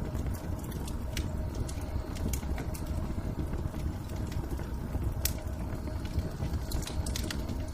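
Wood fire crackling, with scattered sharp pops and snaps over a steady low rumble and a faint steady hum.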